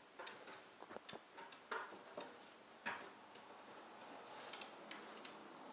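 Dog clawing and chewing at a cardboard shipping box: faint, irregular clicks and scrapes, with a few short louder rasps of cardboard.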